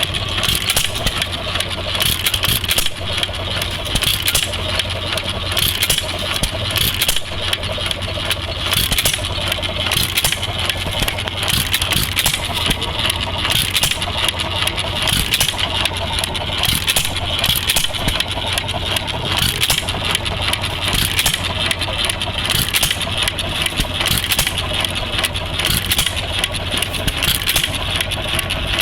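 ARCO hit-and-miss stationary engine running, its firing strokes a steady, rapid series of sharp beats over the clatter of the flywheel engine.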